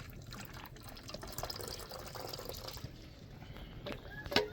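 Water running and trickling for the first few seconds, with a few small ticks, then a sharp knock near the end.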